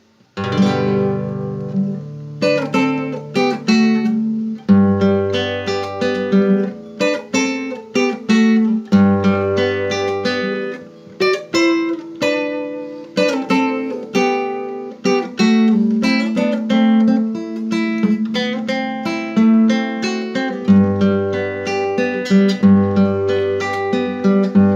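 Acoustic guitar playing an instrumental introduction with plucked and strummed chords over a moving bass line.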